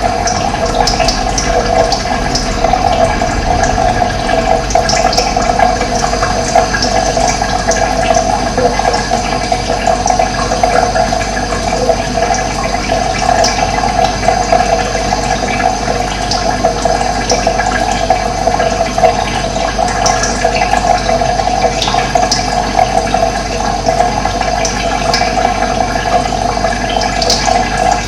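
Steady rush of running water, with brief high bird chirps here and there.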